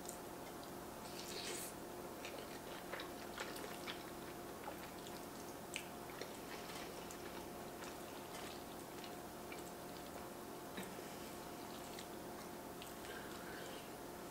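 Close-miked chewing of a mouthful of beef stroganoff with egg noodles: faint, wet mouth clicks scattered throughout. A faint steady hum runs underneath.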